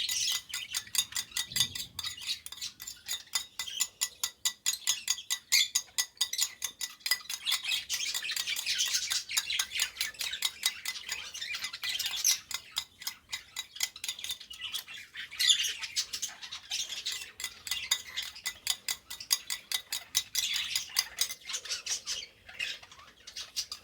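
A spoon stirring and clicking against a small bowl, mixing hand-feeding formula paste, at about four to five clicks a second. Birds squawk and chirp throughout.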